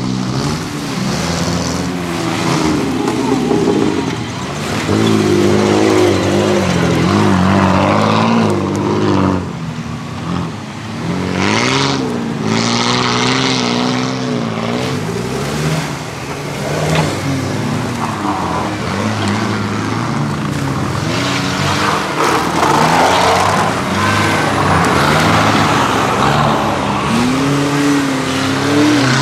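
4x4 SUV engines revving under load off-road, the pitch rising and falling again and again as the throttle is worked.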